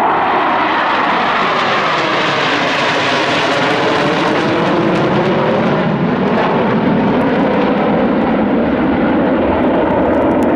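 Jet aircraft passing overhead: loud, steady engine noise whose pitch slowly slides downward as it goes by.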